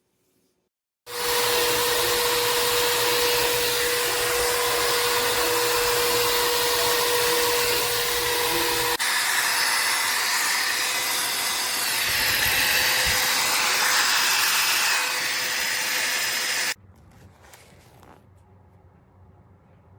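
Mini hot air brush (hair dryer and styler in one) switching on about a second in and blowing: a steady rush of fan and air with a steady whine. About halfway through, the whine drops out and the sound changes abruptly. It shuts off suddenly near the end, leaving only a faint noise.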